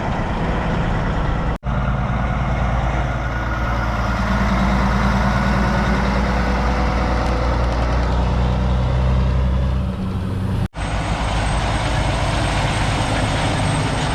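Heavy truck's diesel engine idling steadily, with a low, even hum. The sound cuts out abruptly for a split second twice: once near the start and once near eleven seconds in.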